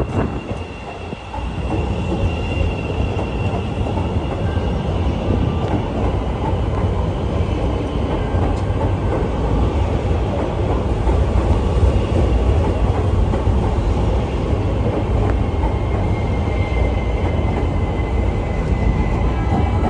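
CTA Bombardier 5000-series "L" train departing, its wheels running on the rails in a steady rumble that builds about a second and a half in and then holds. A faint high ringing tone sits over the rumble.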